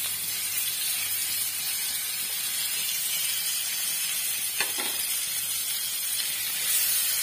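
Green-masala-coated quail pieces sizzling as they deep-fry in hot oil in a pan: a steady high hiss, with two light clicks about four and a half seconds in.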